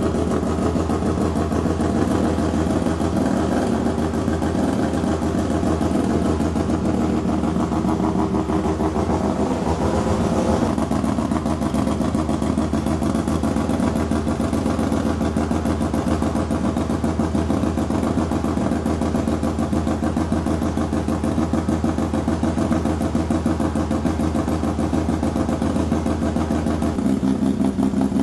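1981 Mazda RX-7 FB's two-rotor 12A Wankel rotary engine running steadily at a choppy idle, the typical rotary "brap" through a big stainless-steel exhaust. The engine note shifts slightly near the end.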